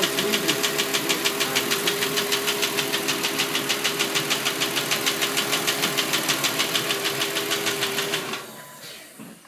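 Audi 2.4 BDW V6 engine running with a regular knock, about seven knocks a second, over a steady hum. The previous owner blamed the knock on the hydraulic lifters. About 8 seconds in the engine is switched off and the sound dies away.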